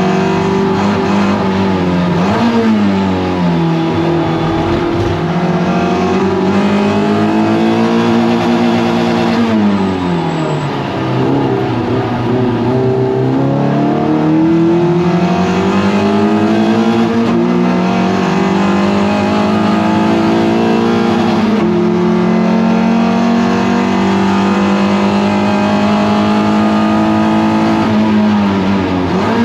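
Toyota MR2 race car engine at racing speed, its pitch repeatedly climbing and then dropping sharply as it is driven hard and slowed for corners, then holding a steady high pitch for about the last twelve seconds.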